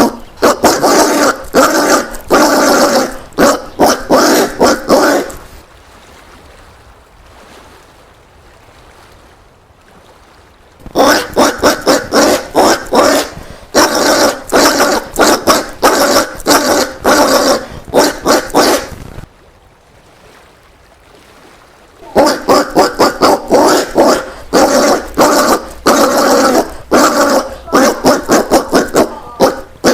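Collared peccary calls: rapid runs of short, harsh pulses in three bouts, the first ending about five seconds in, the next from about eleven to nineteen seconds, and the last from about twenty-two seconds on, with quieter stretches between.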